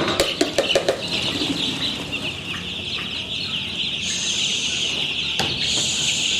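A flock of chickens calling together: a dense, continuous chorus of many overlapping high cheeps and clucks. There are a few sharp knocks in the first second and another about five seconds in.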